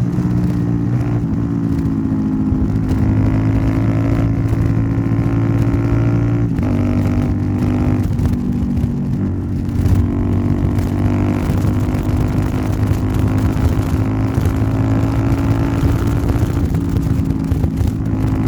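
Royal Enfield Interceptor 650's 648 cc parallel-twin engine running through a Nuke aftermarket exhaust while riding, holding a fairly steady note. The note breaks and steps in pitch once about six and a half seconds in, with a brief dip and bump around ten seconds.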